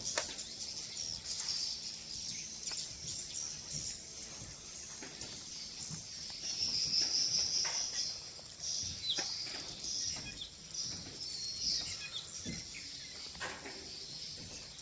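Swiftlets twittering: a continuous high chirping chatter, loudest about six to eight seconds in.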